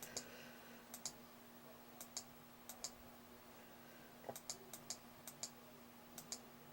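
A run of short, sharp clicks on a computer, about fifteen, spaced unevenly and some in quick pairs, as the video is stepped back through slowly. A faint steady hum sits underneath.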